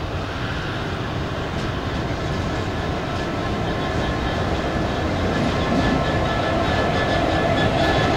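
A freight train hauled by a Class 66 diesel locomotive rolling past, a steady rumble that grows gradually louder, with faint high wheel tones coming in about halfway through.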